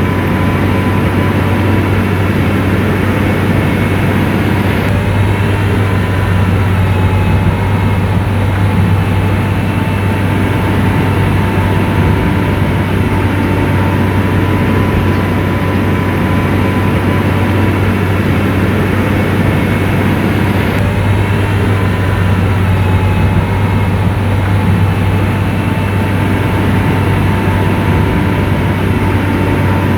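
Motor grader's diesel engine running steadily under work, a constant low drone with a thin steady whine above it.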